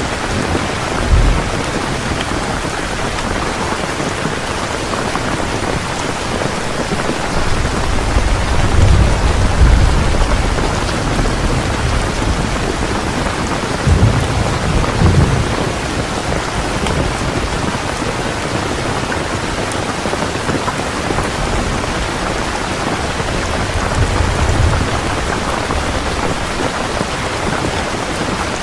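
Heavy rain pouring steadily, with low rolls of thunder swelling up about a second in, around eight to ten seconds in, around fourteen seconds in and again near twenty-four seconds.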